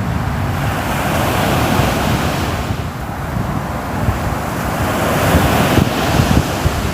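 Sea waves breaking and washing onto a shore: one swell of surf peaks and fades, and a second builds near the end.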